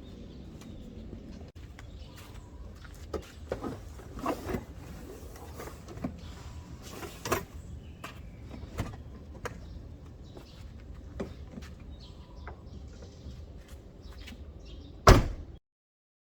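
Scattered light knocks and clatters over a steady low rumble, then one loud slam about fifteen seconds in, after which the sound cuts off abruptly.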